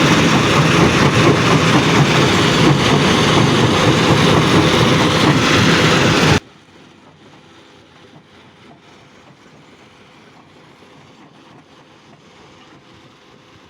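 Stone crushing plant machinery running: a loud, dense, steady mechanical din that cuts off suddenly about six seconds in, leaving only a faint background hum.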